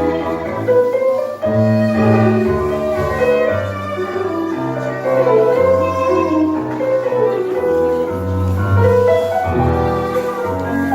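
Live tango music played by a small ensemble, with piano and bowed strings over a moving bass line.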